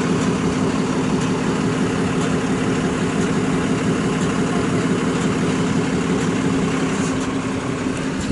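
A steady low mechanical drone, like an engine idling, over an even background noise.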